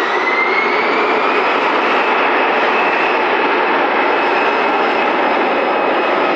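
Lufthansa Airbus A320's jet engines running up for takeoff: a loud, steady rush with a whine that rises over the first couple of seconds and then holds level.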